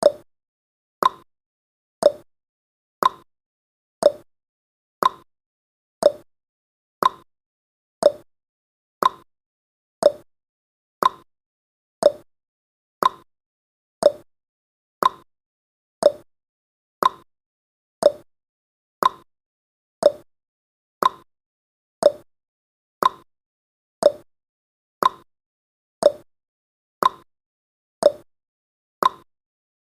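Clock-tick sound effect of a countdown timer: one short, sharp tick every second, evenly spaced, with silence between.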